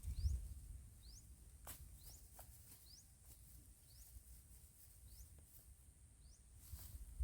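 A bird repeating a short, high rising chirp about once a second over a steady high-pitched insect hiss. A few faint clicks and a low rumble come near the start and end.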